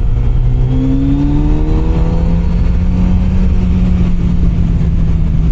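Kawasaki Z900RS Cafe's inline-four engine running steadily. Its pitch rises gently during the first couple of seconds, then holds.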